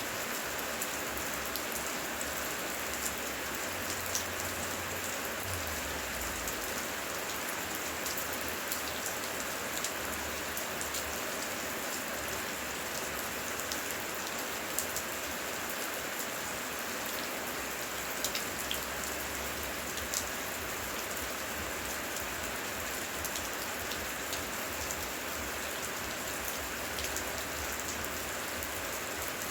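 Heavy rain falling steadily, an even hiss with scattered louder drop ticks.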